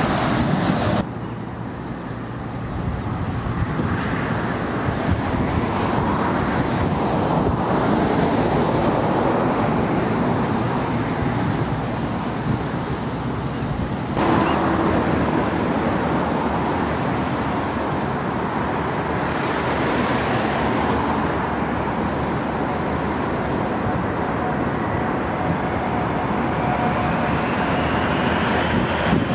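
Jet airliner noise mixed with strong wind rushing over the microphone, changing abruptly about a second in and again about halfway through. A jet engine whine comes in near the end.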